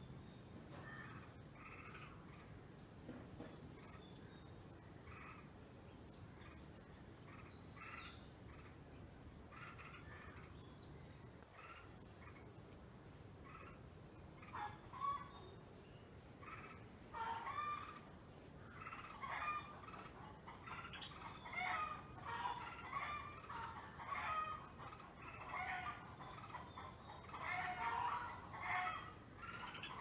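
Birds chirping to call out a newly hatched chick: short repeated calls, scattered at first, then coming fast and louder from a little past halfway.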